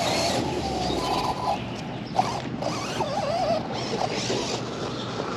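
Electric RC car being driven: a motor whine that wavers up and down in pitch over a rattling drivetrain.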